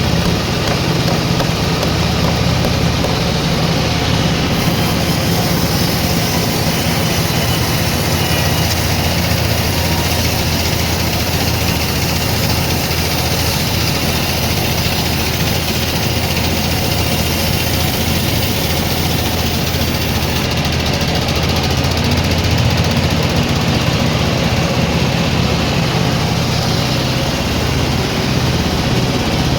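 Sawmill machinery running steadily: an engine drone with a dense mechanical noise over it. An extra high hiss comes in about four seconds in and stops about twenty seconds in.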